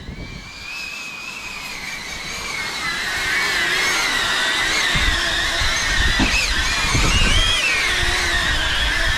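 Xpert Guard X8 caged multirotor drone flying, its propellers whining at several wavering pitches that grow louder about three seconds in. Gusts of wind rumble on the microphone now and then.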